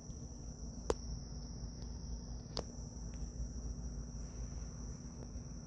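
Two sharp computer-mouse clicks about a second and a half apart, with a fainter one just after, over a steady high-pitched whine and a low hum.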